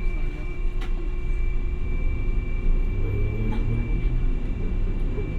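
Hiroden 700 series streetcar heard from inside the car: a steady low rumble of wheels and motors with a steady high tone. A few sharp clicks come about one second in and again about three and a half seconds in.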